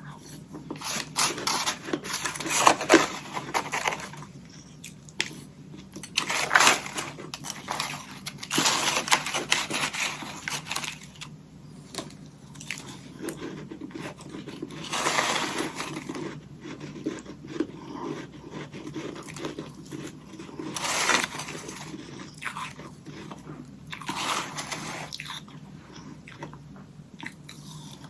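Close-up mouth sounds of a person biting and chewing hollow ice sticks coated in powdery freezer frost. Loud crackling bites come every two to three seconds, with quieter crunching between them.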